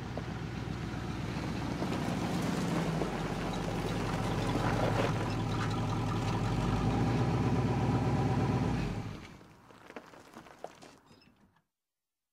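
Car engine running with a low, steady rumble that swells over the first couple of seconds. It cuts off about nine seconds in, leaving a few faint knocks before it goes silent.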